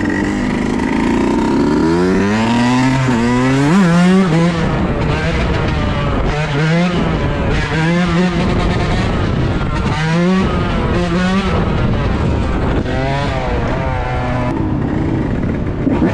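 Dirt bike engine revving as it rides, its pitch climbing and dropping again and again, as when it accelerates through the gears.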